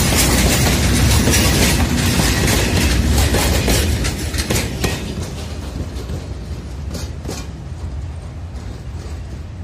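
Train of fuel tank wagons rolling past on jointed track, the wheels clicking over the rail joints. The last wagon goes by about four seconds in; then the level drops and the train's rumble and a few scattered clicks fade as it moves away.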